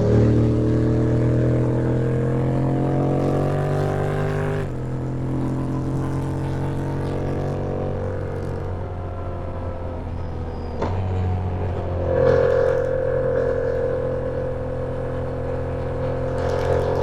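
Yamaha MT-07 parallel-twin engine under way, rising in pitch as it accelerates and then dropping sharply on an upshift by its automated Y-AMT gearbox about four seconds in. It runs on steadily, changes gear again with a short click past the middle, and swells briefly soon after.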